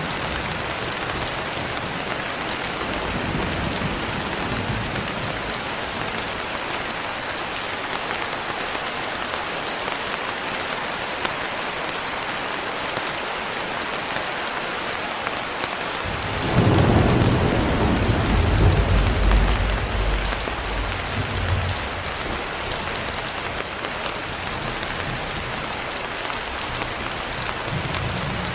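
Steady heavy rain falling, with a long rumble of thunder a little past halfway that swells for a few seconds and fades, and a fainter distant rumble near the start.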